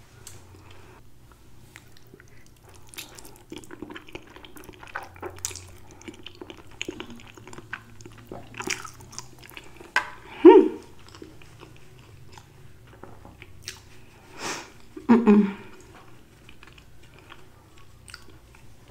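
Close-miked chewing and wet mouth sounds of a person eating creamy fettuccine Alfredo, with many small smacks and clicks. Two louder bursts come about ten and fifteen seconds in.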